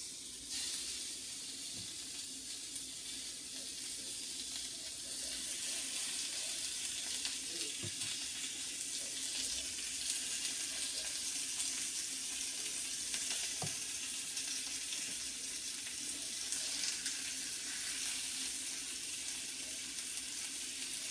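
Salmon fillets sizzling in a hot oiled skillet, laid in flesh side down, a steady frying hiss that starts as the first piece goes in, with a few light knocks.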